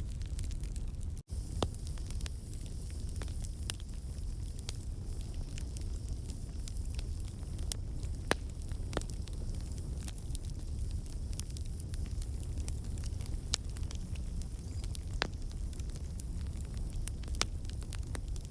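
Campfire of burning logs: a steady low rumble of the flames with scattered sharp crackles and pops from the wood. The sound drops out for an instant just over a second in.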